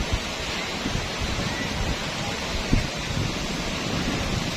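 Steady rush of a waterfall, with wind buffeting the microphone in low gusts and a brief bump near the start and one a little under three seconds in.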